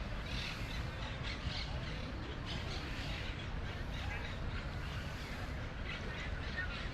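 Outdoor city-park ambience: a murmur of distant voices over a steady low rumble, with birds calling.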